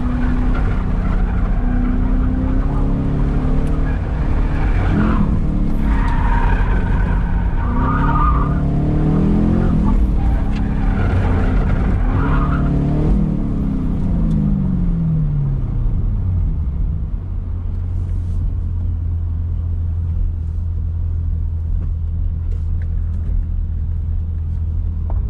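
2013 Camaro SS 1LE's 6.2-litre V8, heard from inside the cabin, revving up and down as the car is driven hard between cones, with tires squealing in the corners. About two-thirds of the way through, the revs fall away and the engine settles to a steady low idle as the car coasts to a stop.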